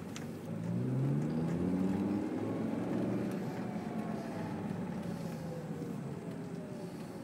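Lamborghini Gallardo LP560-4's V10 engine heard from inside the cabin as the car accelerates, the engine note rising for about two seconds, then falling slowly as it eases off.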